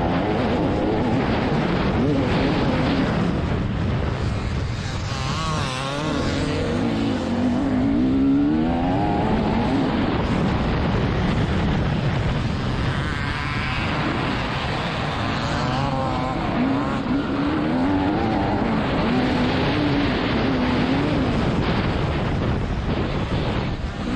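TM 300ES 300 cc single-cylinder two-stroke dirt bike engine revving hard, its pitch repeatedly climbing and dropping as the throttle is opened and shut.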